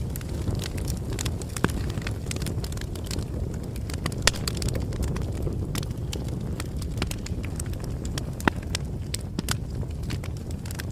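Bonfire crackling: irregular sharp pops and snaps over a steady low rumble of burning, with a couple of louder pops about four and eight and a half seconds in.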